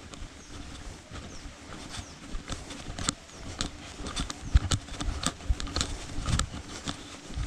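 Footsteps on an outdoor path: irregular steps and crunches, with low rumbling bumps underneath.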